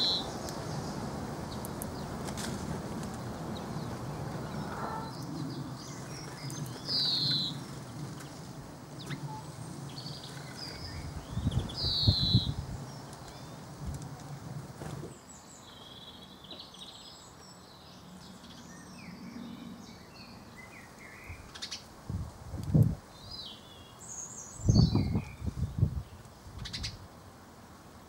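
Small garden birds chirping: a short falling chirp repeated every few seconds at first, then a scatter of quicker, higher chirps. A few low thuds or rumbles break in about halfway through and twice near the end, louder than the birds.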